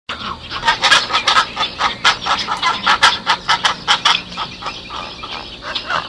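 Domestic fowl calling: many short, sharp calls in quick succession, fading somewhat toward the end.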